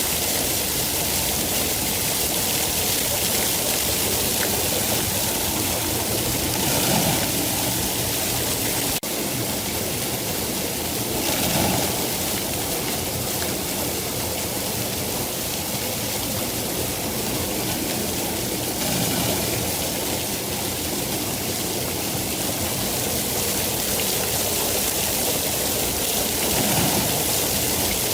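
Steady heavy rain, an even rushing hiss that swells briefly every few seconds, with a slight break about nine seconds in.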